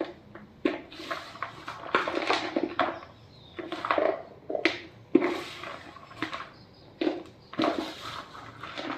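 Blocks of gym chalk being crushed, crunching and crumbling in a string of irregular crunches, about one a second, some longer and grinding, some short and sharp.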